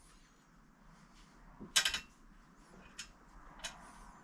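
A few short metal clicks and knocks as a part is set and clamped in a bench vise, the loudest a clattering cluster a little before two seconds in, then two lighter clicks.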